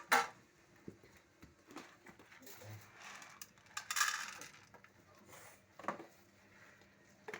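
A few sharp clinks and knocks of a dish being handled, with a short rustling hiss about four seconds in.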